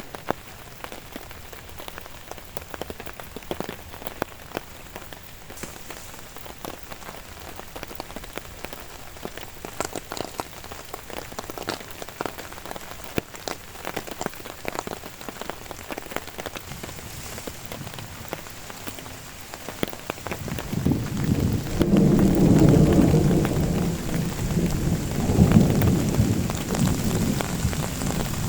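Rain falling steadily, with many separate drops striking close by. About two-thirds of the way through, thunder rolls in as a loud low rumble that swells twice.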